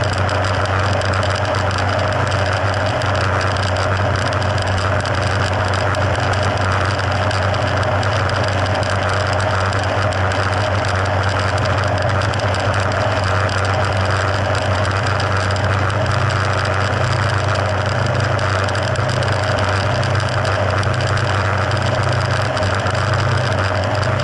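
Mercury F60 four-stroke outboard motor running steadily at an even speed.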